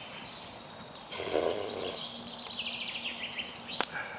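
Small songbirds singing, with a fast trilled phrase in the middle. A brief noise about a second in and a single sharp click near the end.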